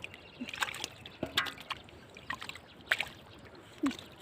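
Shallow floodwater splashing and sloshing in short, irregular bursts as it is disturbed.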